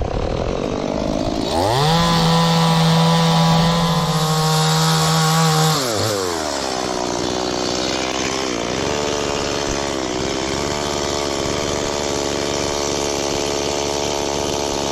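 Chainsaw revved up about a second and a half in and held at a high, steady pitch. About six seconds in the pitch drops and stays lower, wavering, as the chain cuts into the trunk of an aini (wild jack) tree.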